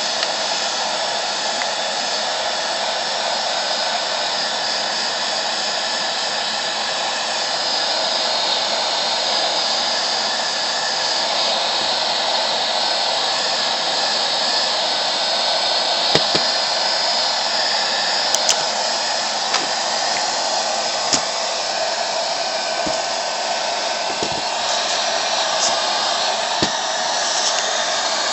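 Electric heat gun blowing steadily, its fan and hot air making an even whoosh while heat-shrink tubing is shrunk over a battery pack, with a few light clicks and taps from handling in the second half.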